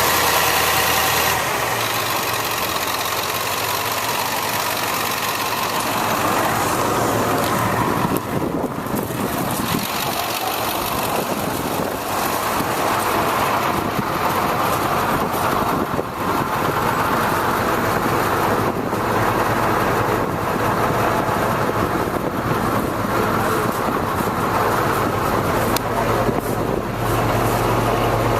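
The engine of a 2002 International mechanics truck running steadily at idle.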